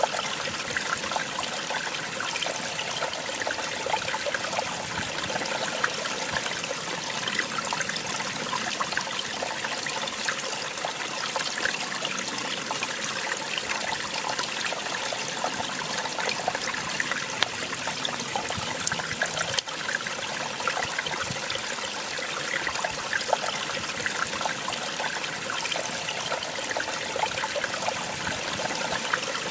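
Small waterfall splashing and trickling steadily over rocks.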